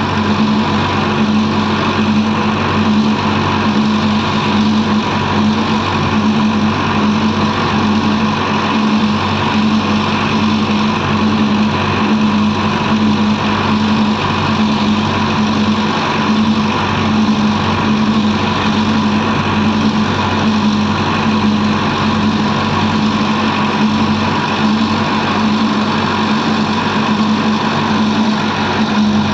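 Diesel earthmoving machinery running: a loud, steady engine drone that holds the same pitch throughout, without revving up or down.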